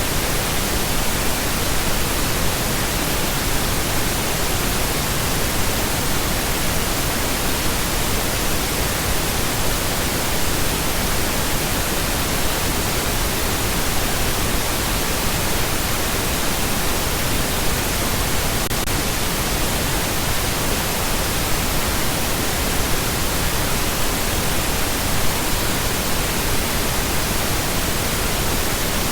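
Continuous pink noise: a steady, even hiss spread across all frequencies.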